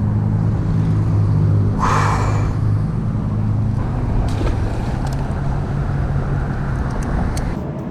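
An engine running with a steady low hum, with a brief hiss about two seconds in.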